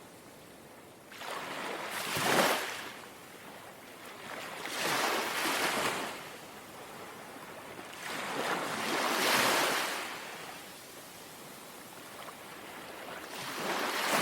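Small, calm sea waves lapping in, each one swelling to a soft rush and fading away, four times at intervals of about four seconds.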